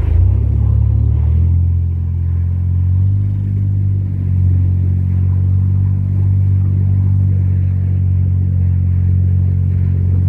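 Van engine running steadily, a low, even drone with no revving.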